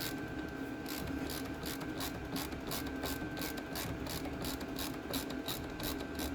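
Ratchet wrench clicking in a steady rhythm, about three clicks a second, winding out a brake caliper bolt, over a steady low hum.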